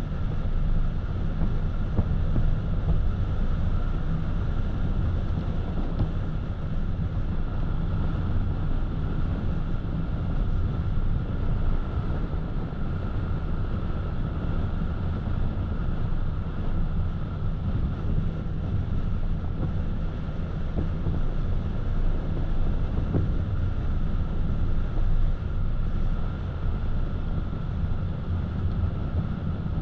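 Steady road noise of a car driving: low tyre and engine rumble with wind, unchanging throughout.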